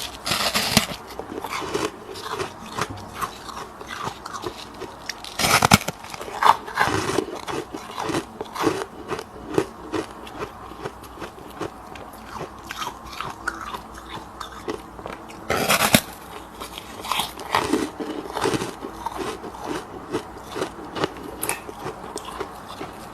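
Freezer frost being bitten and chewed close to the microphone: repeated crisp crunches, with a few louder bites about half a second in, about five and a half seconds in and near sixteen seconds in.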